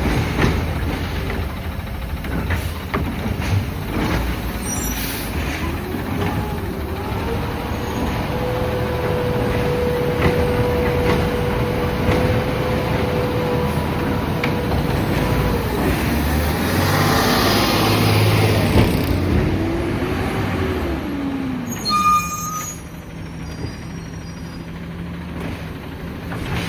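Peterbilt 520 garbage truck engine revving up and holding high revs, then sweeping down and up again before dropping back to a steady idle about 21 seconds in. A brief high squeal follows shortly after it settles.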